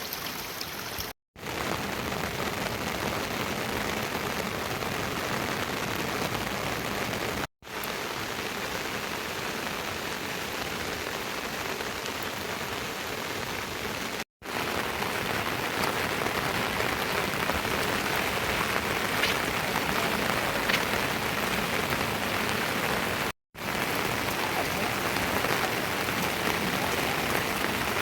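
Steady rain falling, an even hiss that cuts out briefly four times and comes back, a little louder after the middle.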